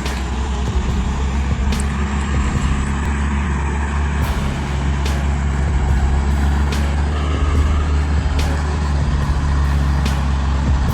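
Heavy truck's diesel engine running with a steady low drone, with a few sharp clicks over it.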